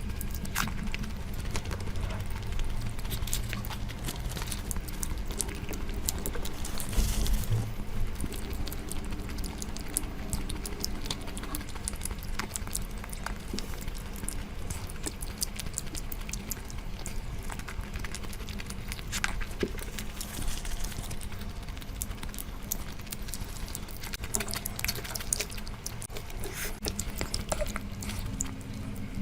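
Close-miked eating sounds from spicy curry being eaten: chewing, wet mouth smacks and squelching, with many small clicks scattered throughout.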